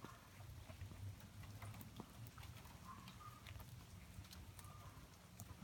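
Faint, irregular drips of rainwater falling after a rain, scattered ticks over a low background hum.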